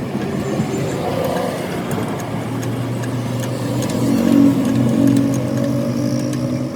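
A motor vehicle's engine running, growing louder a couple of seconds in, loudest around the middle, then easing off a little.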